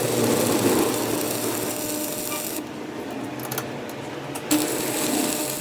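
A machine running steadily with a low hum, and a rough scraping or rubbing noise of metal work over it.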